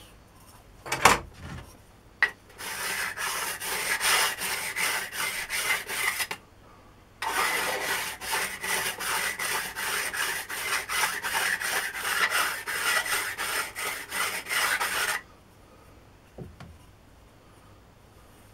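A file worked by hand along the edge of a steel try-square blade, in two runs of quick back-and-forth strokes, about three a second, with a short pause between them. The blade is being trued to an even width. A single click comes about a second in.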